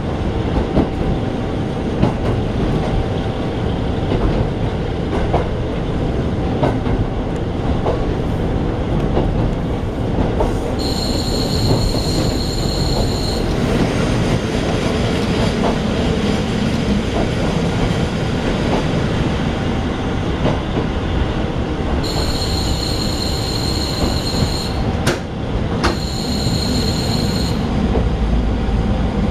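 Diesel railcar running, heard from inside the cabin: a steady rumble with scattered clicks from the track. High-pitched wheel squeal comes three times, once for a couple of seconds about a third of the way in and twice near the end, as the train slows into a station.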